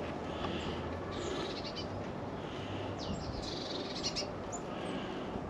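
Birds calling outdoors: a high call repeated about once a second, with a few quick chirps between, over a steady background hiss.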